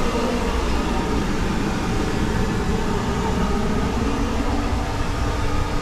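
Steady running noise of the Sunrise Seto sleeper train, a 285 series electric multiple unit, heard from inside a small onboard toilet compartment: an even, unbroken rumble with no separate knocks or clicks.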